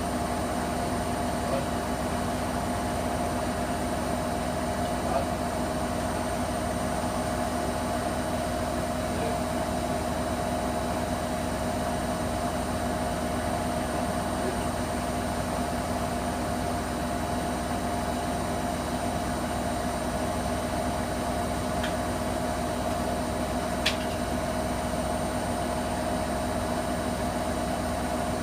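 Hoover Nextra HNWL7146 washer dryer running with a steady, unchanging mechanical hum, with one brief click near the end.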